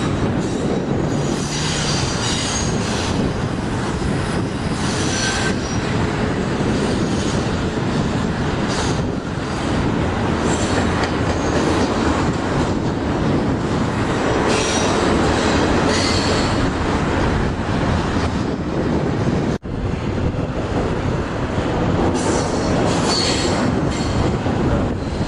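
Railway cars of a CN train rolling past, wheels running on the rail with a steady rumble and high-pitched flange squeal that comes and goes. There is a momentary dropout about twenty seconds in.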